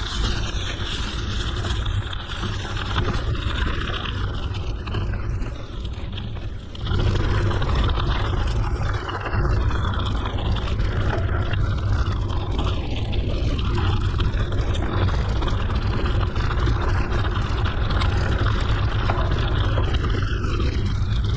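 Wind rumbling on the microphone and tyre noise from a mountain bike riding a forest road. It gets louder about seven seconds in.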